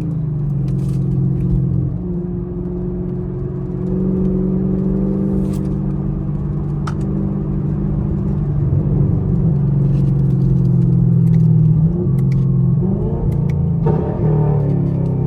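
Straight-piped 2017 Camaro SS's 6.2-litre V8 running while driving, its exhaust note shifting in pitch with throttle and gear changes and climbing near the end.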